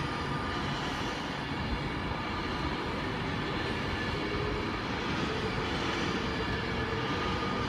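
Class 390 Pendolino electric train running along the platform, a steady rumble with a faint hum of several steady tones that slowly grows a little louder.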